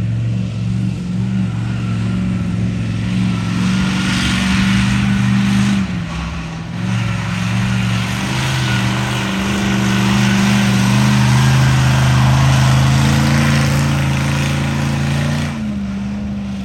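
Monster truck engine running loudly, its pitch shifting down and back up a couple of times, with a rush of exhaust and mechanical noise that swells in the middle.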